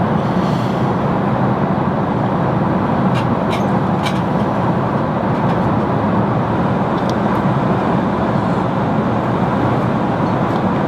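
Airliner cabin noise in flight: a steady roar of engines and rushing air, with a few light clicks.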